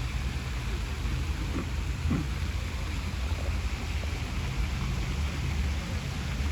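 Steady low rumble of outdoor city ambience, with an even hiss above it.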